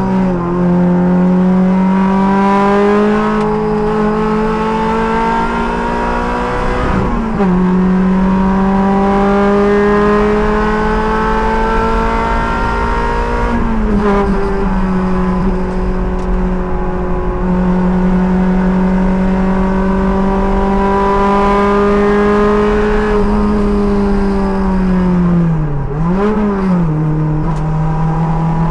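Race car engine heard from the driver's seat under hard acceleration, its pitch climbing through the revs with upshifts about 7 and 14 seconds in. Near the end it slows under braking, with a quick throttle blip on a downshift.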